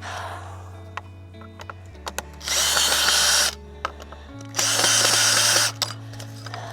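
Power drill-driver running in two bursts of about a second each, backing out a screw that was put in the wrong place.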